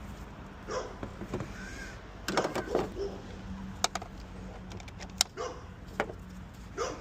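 Several short animal calls, with a few sharp clicks in between.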